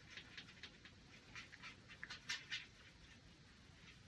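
Faint, irregular soft scratches and ticks of a paintbrush dabbing and mixing watercolor paint on a palette, a little busier in the middle.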